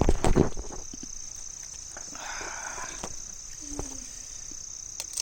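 Crickets chirring steadily in a continuous high-pitched drone, with a short burst of loud clattering knocks right at the start.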